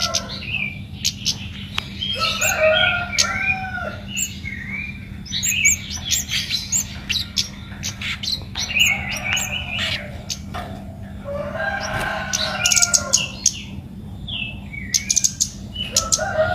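A 'baret merah' songbird singing hard in repeated chattering phrases, a second or so each, every couple of seconds: the full 'gacor' song of a bird calling out a rival. Sharp ticks come between the phrases over a steady low hum.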